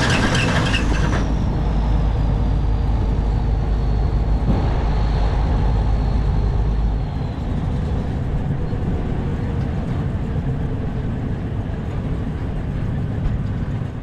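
Large vehicle engine running with a heavy low rumble that drops away about seven seconds in, leaving a quieter steady engine sound. A loud hiss cuts off about a second in.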